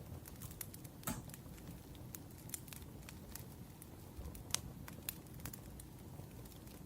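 Wood fire crackling: irregular sharp pops and snaps over a soft steady rush of burning, with a louder pop about a second in and another about halfway through.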